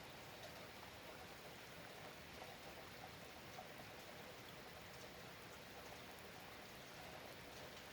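Faint, steady rainfall: an even hiss of rain with scattered light drip ticks.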